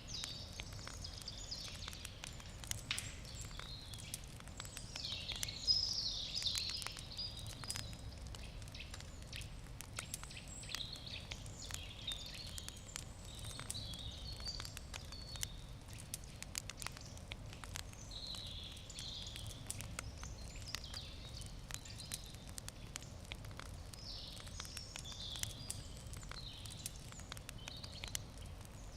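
Wood campfire crackling, with frequent small sharp pops, while birds sing in the background.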